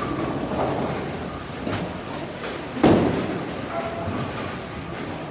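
Bowling ball rolling down the lane, then a sudden loud crash of pins about three seconds in that fades away.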